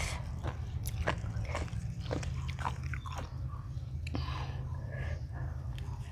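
A person chewing and crunching food close to the microphone, with irregular crisp bites about every half second over a steady low hum.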